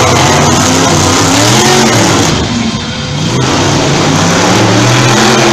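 Monster truck engines revving hard during a race, rising and falling in pitch, easing off briefly about two and a half seconds in before climbing again.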